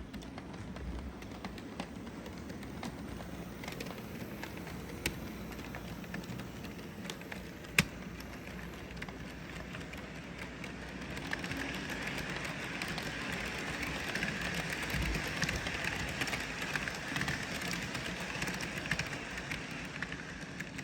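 Model train running by on its track: the Atlas GP38 model locomotive's motor and wheels make a steady running noise that grows louder about halfway through as it comes nearer. Two sharp clicks in the first half.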